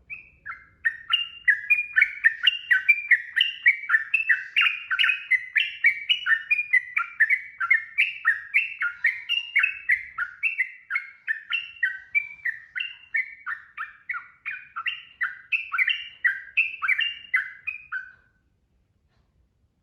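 Yellow-vented bulbul (trucukan) singing a long, fast, continuous bubbly song of short notes that jump up and down in pitch, about four notes a second, breaking off near the end.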